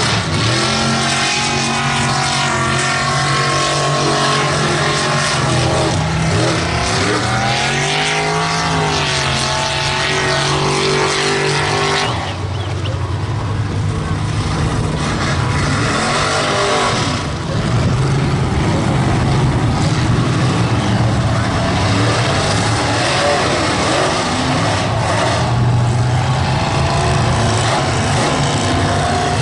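Mega mud truck's engine running hard under load, its pitch rising and falling as it is revved through the mud for the first twelve seconds, then a rougher, steadier drone to the end.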